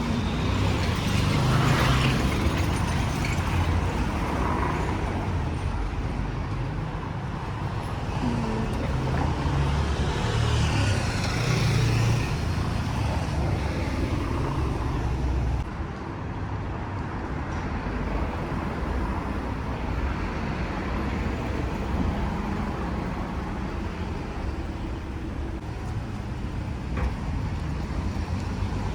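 City street traffic: a steady rumble of passing cars and engines, swelling a couple of times as vehicles go by.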